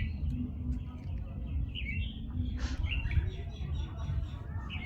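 Small birds chirping repeatedly in short high calls, over a steady low rumble.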